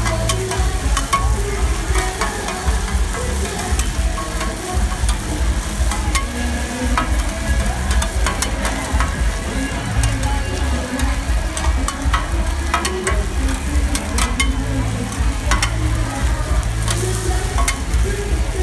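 Mussels, egg and batter sizzling in oil on a wide flat pan while two metal spatulas scrape and chop through them, with frequent irregular clinks of metal on the pan and a low rumble underneath.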